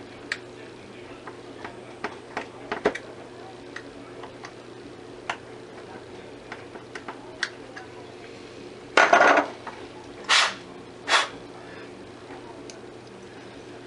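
Small metal hardware and tools being handled during assembly: scattered light clicks and taps, then a louder rattling scrape about nine seconds in and two short clinks soon after.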